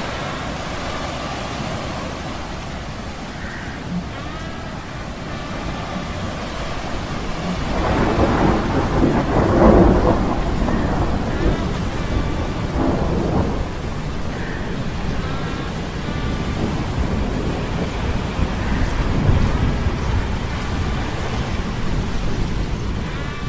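Storm sound effect: steady rain with rolling thunder that swells loudest about eight to ten seconds in and rumbles again twice later, over a faint metallic humming of gears.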